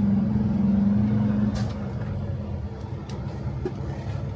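Heavy truck engine running with a strong steady hum over a low rumble. The hum falls away about a second and a half in, with a click, and a lower steady rumble carries on.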